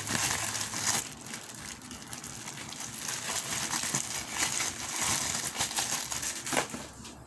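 Plastic clay packaging crinkling and crackling as modelling clay is handled and taken out for the next piece.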